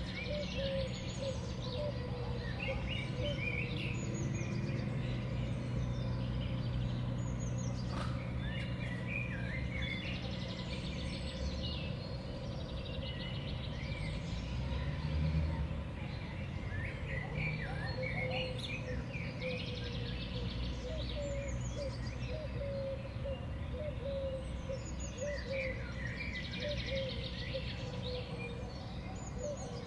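Several small songbirds chirping and calling over one another, over a steady low rumble.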